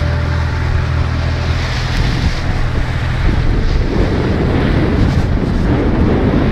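A boat under way: a steady low engine hum for about the first two seconds, then wind buffeting the microphone and water rushing past take over for the rest.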